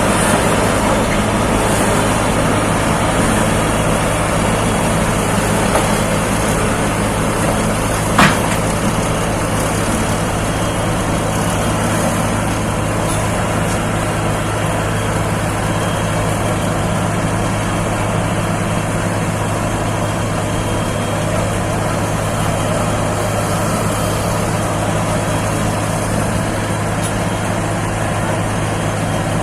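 Heavy vehicle engine running steadily at an even speed, with a single sharp knock about eight seconds in.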